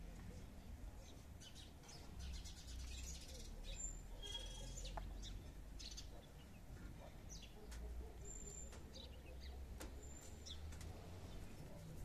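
Small birds chirping faintly, short high notes scattered through, over a low rumble.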